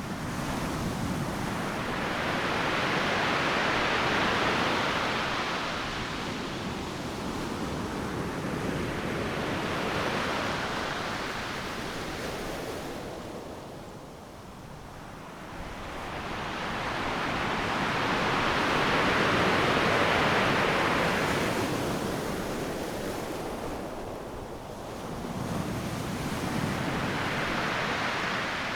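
Ocean surf breaking on a sandy beach: a steady wash of noise that swells and subsides as each wave crashes and runs up, with the biggest break about two-thirds of the way through.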